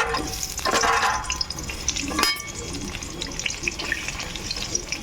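Cut potatoes frying in hot oil in a kadai, a steady crackling sizzle, with a sharp knock about two seconds in.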